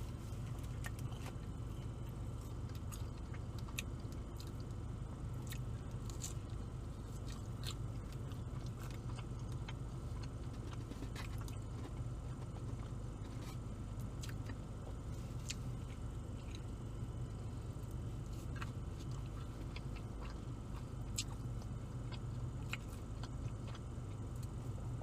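A man chewing and biting BBQ chicken pizza close to the microphone, with many small wet mouth clicks, over a steady low hum.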